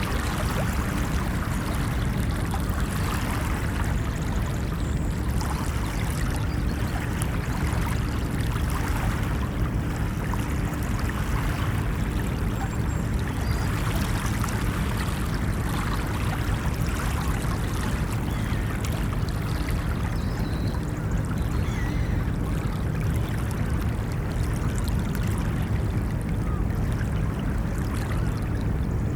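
Ocean waves washing on a beach: a steady, unbroken wash of surf with a low rumble underneath.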